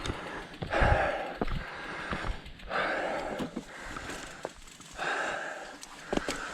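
A mountain biker breathing hard while riding, a loud puffing exhale about every two seconds, with short clicks and rattles from the bike on the trail.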